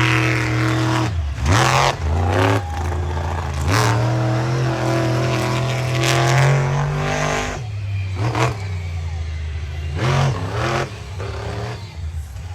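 Monster truck engine revving hard, its pitch dropping and climbing again several times as the throttle is lifted and reapplied, with a few sharp cracks along the way.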